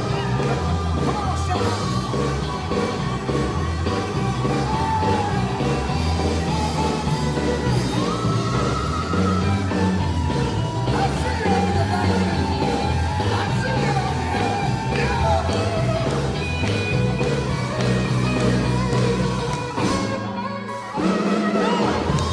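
Sacred steel gospel band playing live, with gliding steel-guitar lines over a steady beat and singing. The sound drops out briefly about twenty seconds in, then the band comes back.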